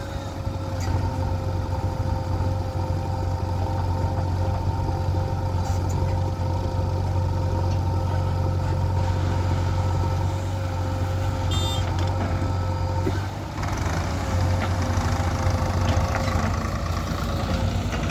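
Heavy diesel engine of earthmoving or farm machinery running steadily with a constant low drone and a steady whine over it; about two-thirds of the way through it changes and runs louder and rougher, as if taking on load.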